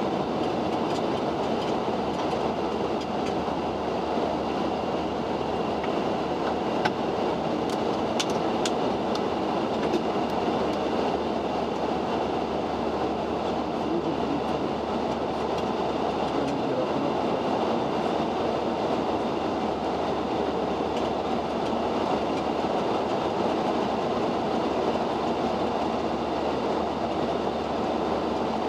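Steady cockpit noise of a Boeing 737-800 climbing out after take-off with the flaps retracted: an even rush of airflow and engine noise at a constant level, with a few faint ticks.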